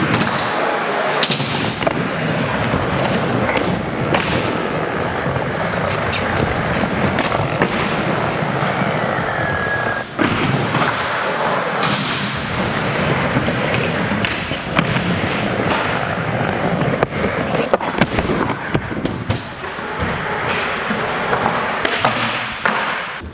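Skateboarding in an indoor skatepark: urethane wheels rolling over ramps with a steady rumble, broken by repeated sharp clacks and thuds of boards popping, landing and hitting coping, echoing in the hall.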